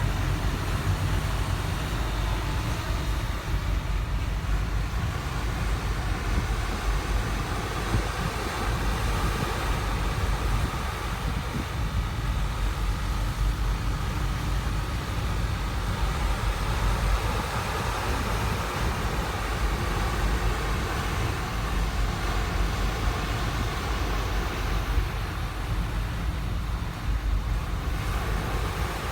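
Steady low rumble of wind on the microphone, mixed with the noise of a moving passenger ship, on the ship's open deck.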